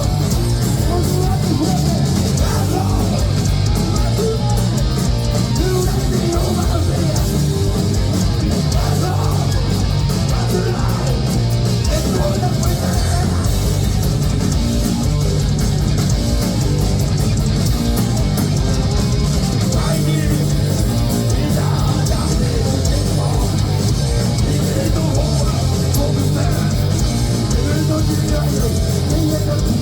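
Heavy metal band playing live, with electric guitars over a loud, dense wall of sound that holds steady throughout.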